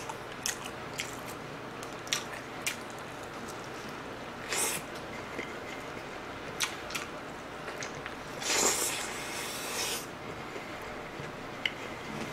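Close-miked eating of a Mom's Touch Thigh Burger, a fried chicken-thigh burger: a bite into the bun and chewing with wet smacking clicks. There is a short rush of noise about four and a half seconds in and a longer, breathy one from about eight to ten seconds.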